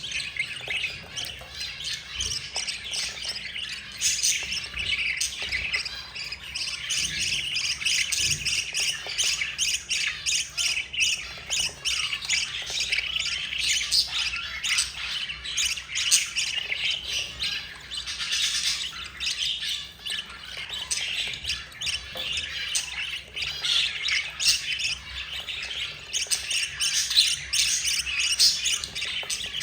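Budgerigar chicks and their mother calling without a break: a dense run of rapid, high squeaky chirps and squawks. This is the begging chatter of chicks being fed.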